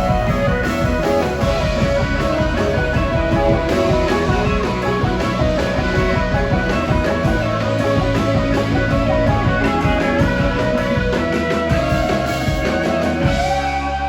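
Live rock band playing an instrumental passage with electric guitar to the fore. About 13 seconds in the beat stops and a chord is held, as the song winds down.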